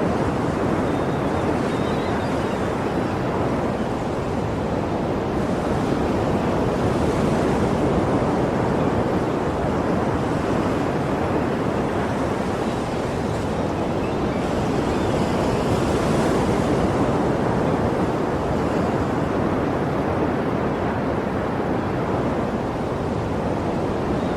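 Sea waves washing onto the shore in a steady, continuous rush, swelling gently every few seconds.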